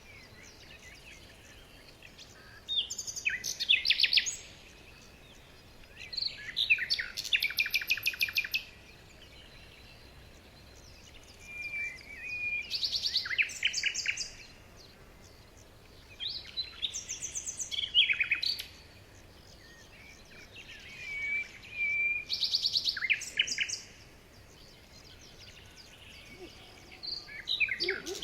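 Small birds chirping in about six separate bursts of rapid, trilled high notes, each lasting a couple of seconds, with short pauses and a faint steady hiss between them.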